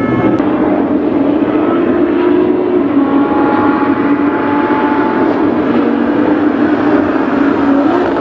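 MotoGP safety car's engine running hard and continuously, its pitch gliding up and down as it revs and changes gear.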